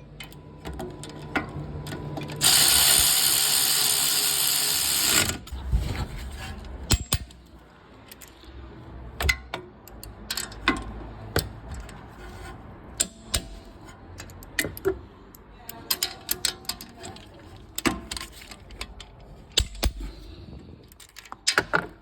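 Mechanic's hand tools at work on a car's wheel hub: a ratchet clicking and scattered metal clicks and clanks. A loud hissing burst lasts about three seconds, a few seconds in.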